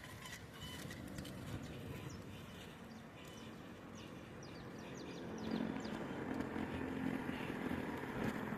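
Small birds chirping in quick, short descending notes, with a motor vehicle's low engine hum that grows louder in the second half as it approaches.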